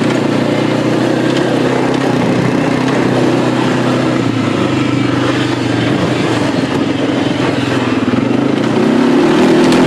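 A four-wheeler (ATV) engine running steadily while being ridden. Its pitch and loudness rise briefly about nine seconds in as it is revved up.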